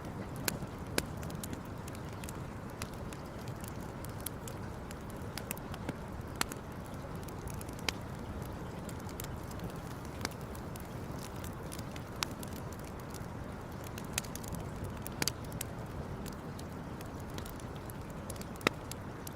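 Campfire crackling: irregular sharp pops, about one every second or two, over a steady low rumble.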